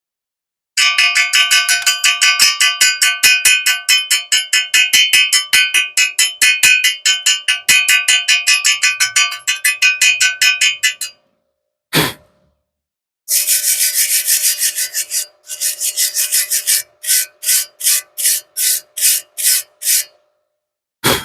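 A hand tool working over the welded square steel pipe, most likely cleaning slag off the E6013 stick weld. Fast, even strokes come about five a second with the steel pipe ringing at steady pitches. After a pause and a further run, the strokes slow to about two a second near the end.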